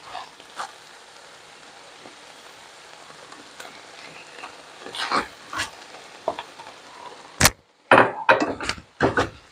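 Shredded chicken sizzling steadily in a skillet of hot olive oil. A wooden spoon stirs and scrapes it in short strokes through the second half, with one sharp knock a little past the middle.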